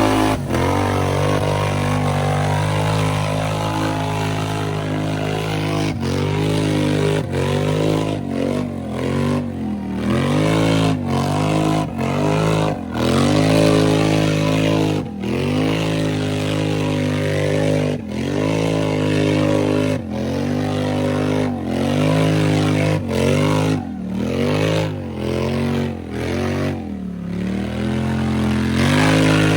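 Built ATV engine, a CW Motorsports 1000, revving hard in a mud bounty-hole run: held at high revs for the first several seconds, then its pitch repeatedly dips and climbs again about once a second as the throttle is worked.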